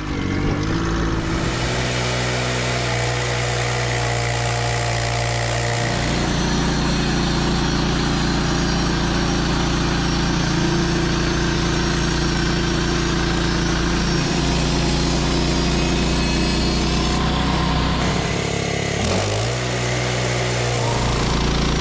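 An engine-driven machine running steadily, its note and load shifting about six seconds in and again about three seconds before the end.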